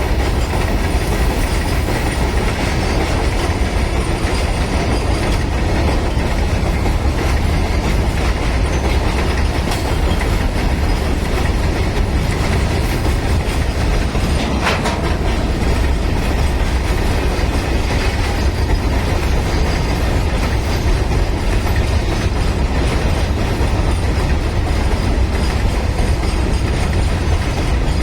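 Loaded freight train rolling by: a steady, loud rumble of wagon wheels on the rails, with one brief sharp click about halfway through.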